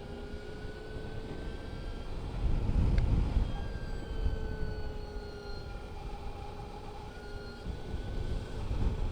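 Energica Experia electric motorcycle riding along, its electric motor giving a thin whine that slowly rises and falls in pitch over a low rumble of wind and road noise. The rumble swells for a moment about three seconds in.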